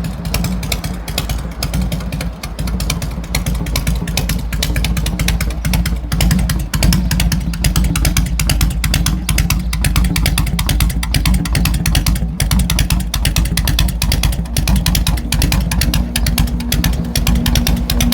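A 1992 Harley-Davidson Heritage Softail Classic's air-cooled 1340 cc Evolution V-twin running steadily, with a fast string of firing pulses, a little louder from about seven seconds in.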